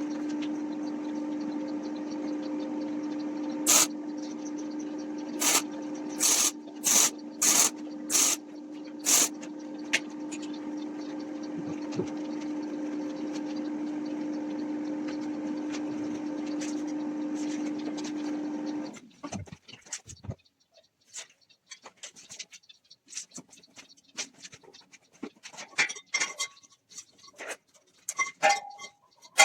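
A motor hums steadily at one pitch, with a run of about eight short, sharp hissing bursts early on. It cuts off suddenly about two-thirds of the way through, leaving scattered light clicks and knocks.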